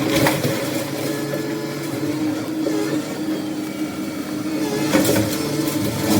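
Heavy machine engine running steadily at a constant pitch, with a few sharp knocks: one just after the start and a cluster about five seconds in.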